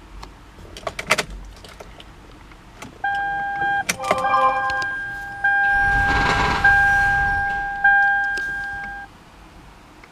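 Electronic warning chime in a 2007 Toyota Highlander Hybrid, sounding during a start attempt on a vehicle that will not start. A few clicks about a second in, then a steady tone that sounds for about six seconds, restarting and fading about every 1.2 s, with a brief hiss in the middle.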